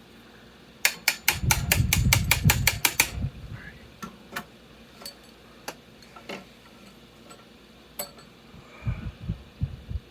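Mechanical clicking from hand work on metal motorcycle parts. About a second in comes a rapid run of sharp clicks, about six a second for two seconds, with a low rumble under it. Scattered single clicks and a few low knocks follow near the end.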